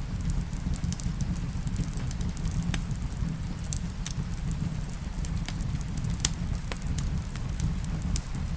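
Wood fire crackling in a fireplace, sharp irregular pops over a steady low rumble, with rain falling.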